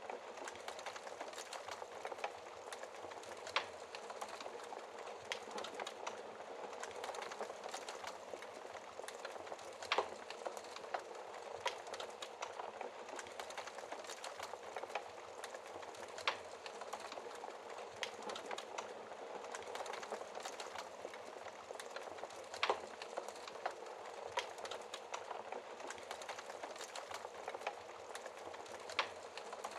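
Wood fire burning in a fireplace: a steady soft hiss with irregular crackles and pops scattered throughout, a few sharper pops standing out.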